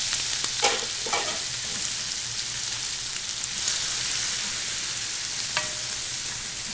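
Shrimp sizzling in oil in a nonstick skillet and being stirred around the pan, with a few scraping strokes between about half a second and a second and a half in.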